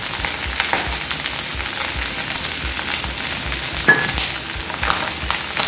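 Chicken gizzards and okra sizzling in oil in a frying pan over high heat, with a steady hiss and scattered crackles as garlic and ginger go in. A short sharp clink about four seconds in.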